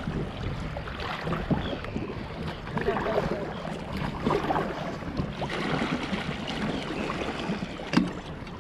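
River water splashing and gurgling, with wind rumbling on the microphone and a sharp knock near the end.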